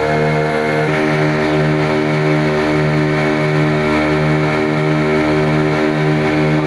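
The boat's twin engines running steadily at cruising speed: a loud, even drone with a slow regular throb, shifting slightly in pitch about a second in.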